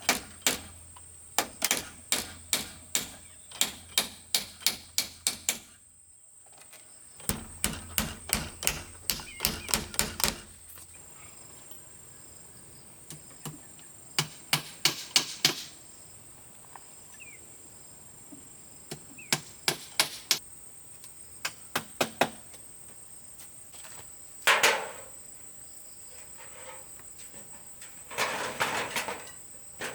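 Runs of sharp, evenly spaced knocks from a hand tool striking, about two to three a second, stopping and starting several times, with a couple of rougher, noisier bursts near the end.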